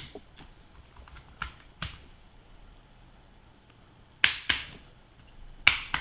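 Plastic vent shutters on a Shoei XR-1100 full-face motorcycle helmet being slid open and closed, a series of sharp separate clicks, the loudest a pair about four seconds in and another near the end.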